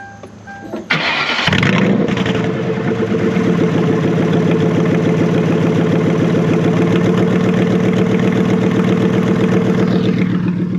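A V8 car engine being started: a short burst of cranking about a second in, then it catches and runs steadily at a fast idle before fading away near the end.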